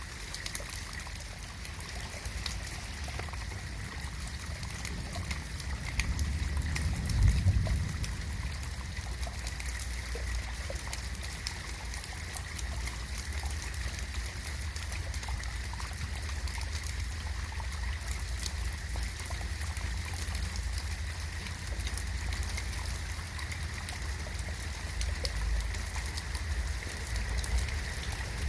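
Steady rain falling, with scattered drops ticking and a low rumble underneath that swells briefly about seven seconds in.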